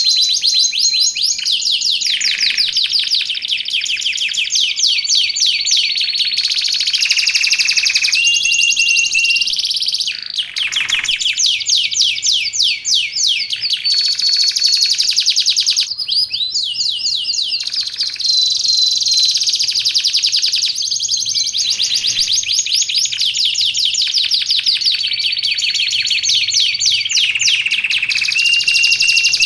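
Domestic canary singing a long, continuous song of fast rolling trills interspersed with held whistled notes, with no pauses.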